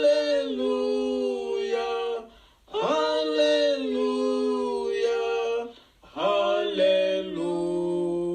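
A man and a woman singing a hymn's closing 'Alleluia' refrain together, three long drawn-out phrases with short breaths between them.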